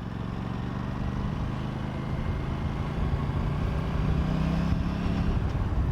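Aprilia RS 457's parallel-twin engine running under light throttle while riding at low speed, its pitch rising slightly in the second half and dropping away near the end.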